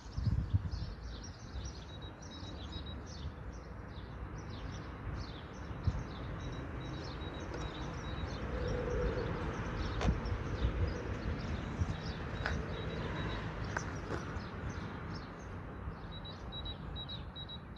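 Outdoor ambience: many small birds chirping and twittering, with a repeated thin high trill, over a continuous low rumbling noise and a few sharp clicks.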